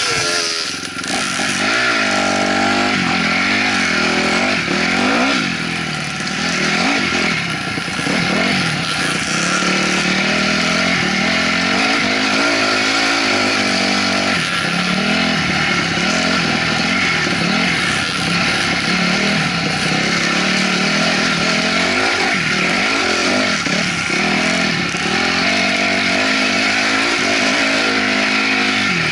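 2008 Honda CRF250R dirt bike's single-cylinder four-stroke engine running under way, its pitch rising and falling over and over as the throttle is worked, with steady wind rush on the helmet-mounted microphone.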